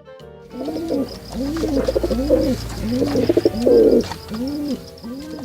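Pigeon cooing: a series of low, rounded coos repeated about every half second, over faint background noise.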